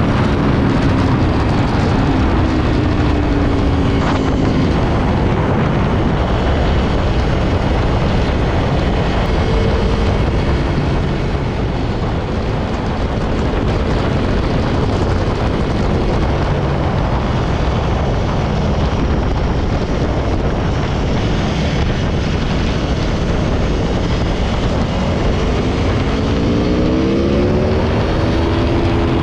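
Aprilia Tuono V4 1100's V4 engine under way on the road, with heavy wind rush over the rider's microphone. The engine note eases down in the first few seconds, then climbs and drops back again near the end.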